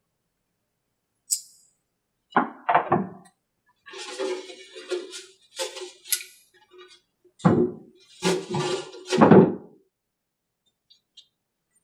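Clunks, knocks and scraping of metal parts as a twin-cylinder model aircraft engine is unbolted and lifted off its metal test stand, ending in two heavier thuds near the end.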